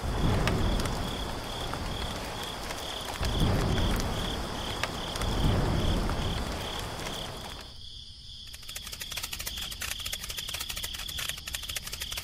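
Insects chirping in a steady, evenly pulsing high trill, with low rumbles swelling through the first half. About eight seconds in the sound cuts and rapid, dense ticking takes over.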